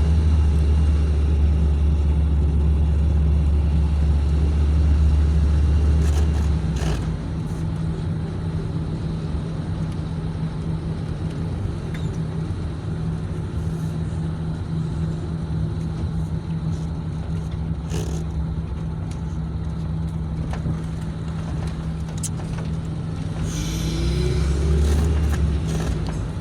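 A car's engine and road noise as a steady low rumble, heard from inside the vehicle while it drives. The rumble drops somewhat after about seven seconds, and a short rising engine note comes near the end as the car picks up speed.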